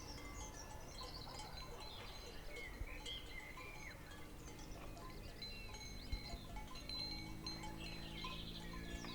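Small birds chirping and twittering throughout. About halfway through, a cow starts one long, low, steady moo that carries on to the end.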